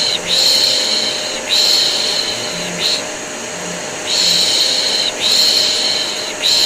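Rhythmic 'piş piş' baby-soothing shushing, a hissing 'pshhh' made in sets of three about a second each with a short one after each set, repeating every three and a half seconds or so. Underneath runs the steady drone of a vacuum cleaner, used as white noise for a colicky baby.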